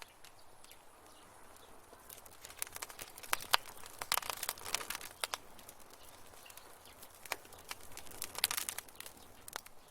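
Wood fire in a fireplace crackling, with quick sharp pops and snaps over a faint hiss. The pops come thickest a few seconds in and again near the end.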